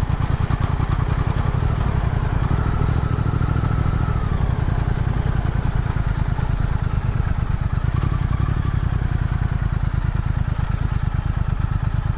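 Motorcycle engine running steadily under way, a dense low rumble with fast regular pulsing.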